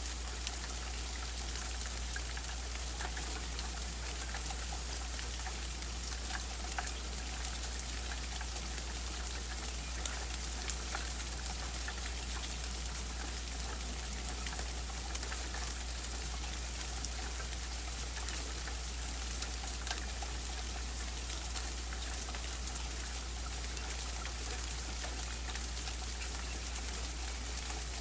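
Steady rain falling, with scattered individual drops ticking, over a constant low rumble.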